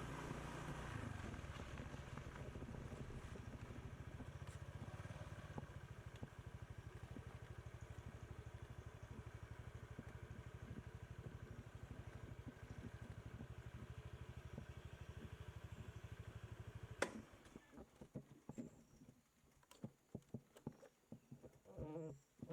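Motorbike engine running steadily with a rapid, even pulse, cut off by a sharp click about three-quarters of the way through. Scattered light taps and knocks follow.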